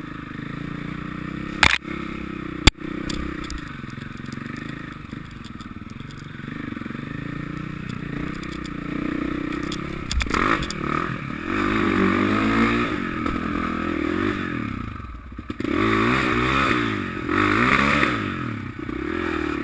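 Motocross bikes' engines revving, their pitch rising and falling again and again as they ride, growing louder about halfway through. Two sharp knocks sound in the first few seconds.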